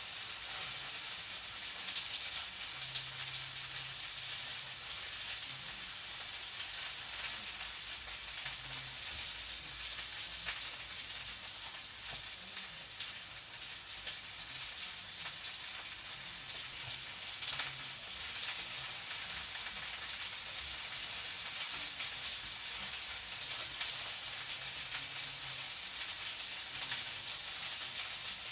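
Food frying in a pan: a steady sizzle with many small crackles and pops.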